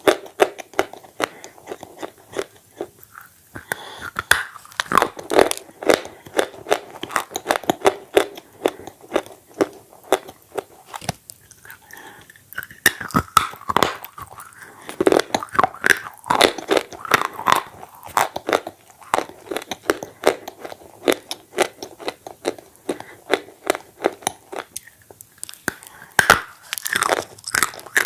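Close-up eating sounds of bread dipped in red clay paste: repeated biting and crunching chews, several a second.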